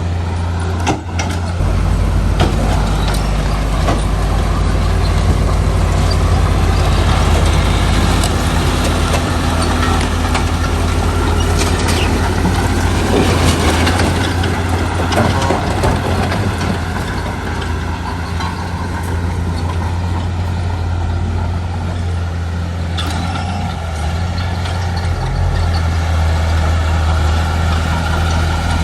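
Heavy diesel construction machinery running steadily under load, with a few brief knocks along the way.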